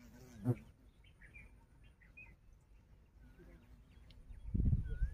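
Birds calling outdoors: short, wavy whistled phrases repeating every second or so. A brief sharp sound comes about half a second in, and a louder low rumble near the end.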